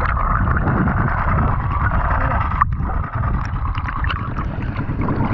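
Steady rushing and sloshing of seawater against a swimmer's camera microphone, with a brief dip about halfway.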